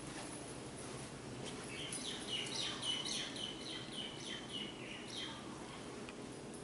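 A bird singing a rapid run of short, repeated chirps, about three a second, that starts a little over a second in and stops about five seconds in, over a faint steady hum.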